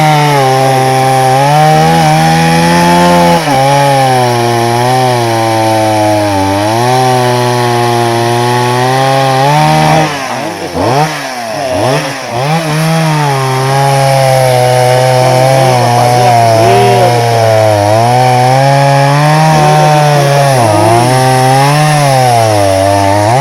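Chainsaw cutting a fallen jatobá trunk, its engine pitch sagging and recovering as the chain bites into the hardwood. About ten seconds in it eases off briefly, then goes back to full cutting, and it drops away at the very end.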